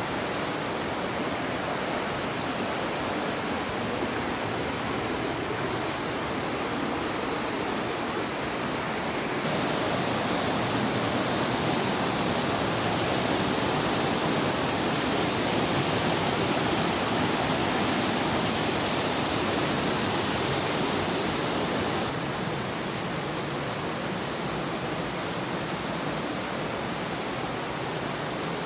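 Steady rushing of water, a continuous even hiss with no breaks; it steps louder about ten seconds in and drops back about twenty-two seconds in.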